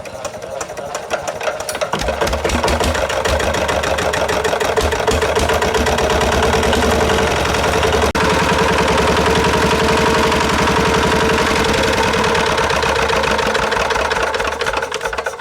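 Tractor engine running steadily, getting louder about two seconds in and easing off near the end.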